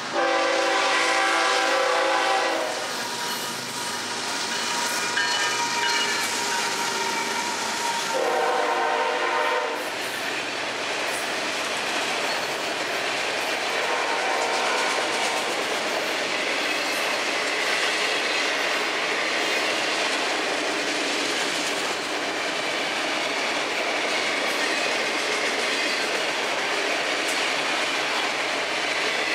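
FEC freight locomotive's air horn sounding a long chord at the start and a shorter blast about eight seconds in, followed by the steady rumble and wheel clatter of a long train of autorack cars rolling past.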